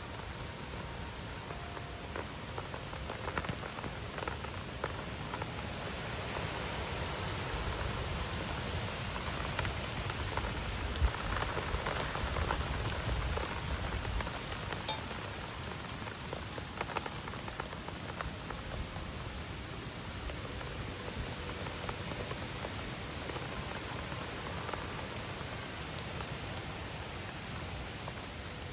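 Steady rain falling, with a wood campfire crackling and popping. The rain swells louder through the middle, with one sharp pop there.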